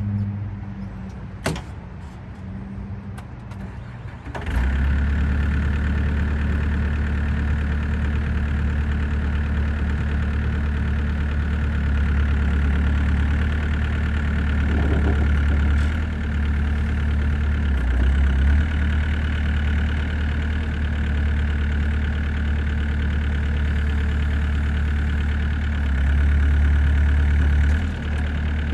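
A few clicks, then about four seconds in the Gehl 603 compact excavator's diesel engine starts and settles into a steady idle.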